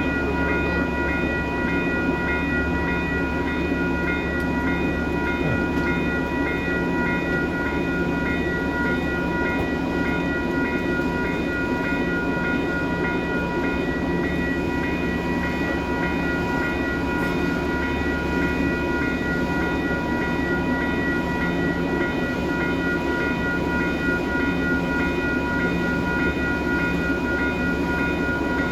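Diesel train running steadily, a constant low rumble with a steady high whine over it and faint regular ticks.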